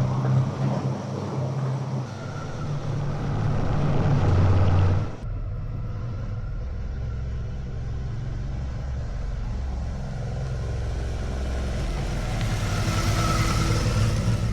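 Suzuki V-Strom motorcycle's V-twin engine running steadily while riding, with rushing wind noise. The wind noise cuts away abruptly about five seconds in, leaving the engine hum, and builds again near the end.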